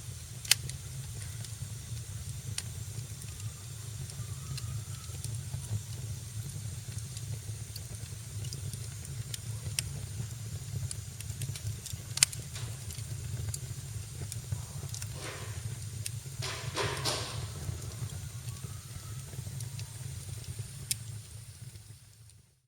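Wood fire crackling in a fireplace: a steady low rumble of the flames with scattered sharp pops, the loudest about half a second in and about twelve seconds in. A brief hiss rises from the burning wood about fifteen to seventeen seconds in, and the sound fades out right at the end.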